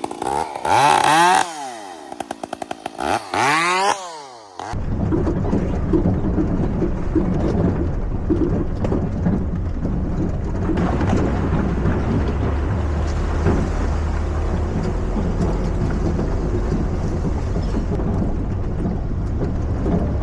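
Chainsaw engine revving up and down several times, its pitch rising and falling. About five seconds in, it gives way abruptly to a steady low rumble.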